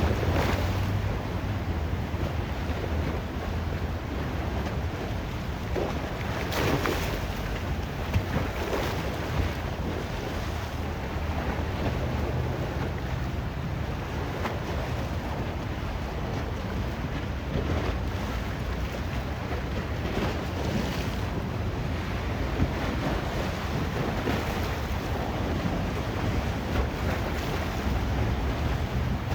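Ocean waves breaking and washing along the shore, with a few louder surges, and wind buffeting the microphone as a steady low rumble.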